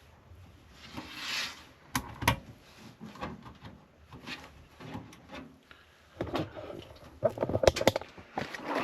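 Computer parts being handled: scattered clicks and knocks, a short rustle about a second in, two sharp clicks about two seconds in, and a quick run of clattering near the end.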